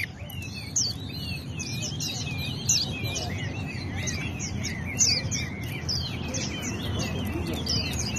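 Caged songbird singing: a continuous run of short, high chirps and slurred whistled notes, over a low steady background noise.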